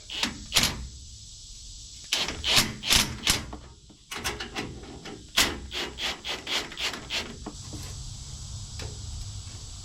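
Irregular knocks and scraping as aftermarket muffler tips are worked onto a truck's exhaust pipes by hand.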